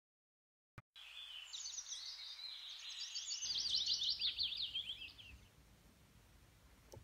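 A small songbird twittering: a rapid run of high chirps lasting about four seconds, then fading out over faint room noise.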